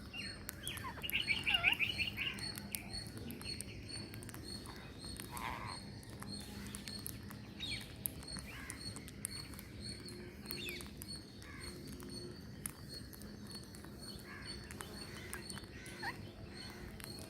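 Green parrots calling: a quick run of short chirps about a second in, then scattered single calls.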